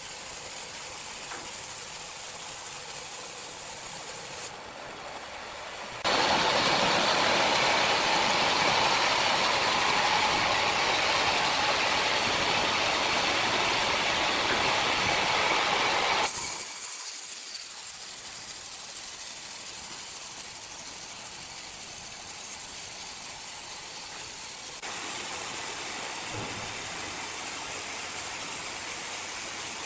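Sawmill machinery running with a steady, hissing mechanical noise that changes abruptly several times, as if cut between shots. It is loudest from about six to sixteen seconds in.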